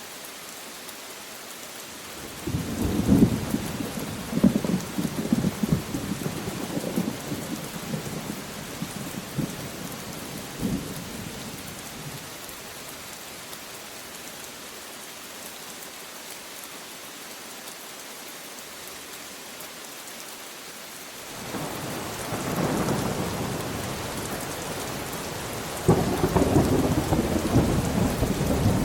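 Steady rain with rolls of thunder: a crackling rumble starts about two seconds in and dies away by about eleven seconds, then thunder builds again from about twenty-one seconds and grows louder near the end.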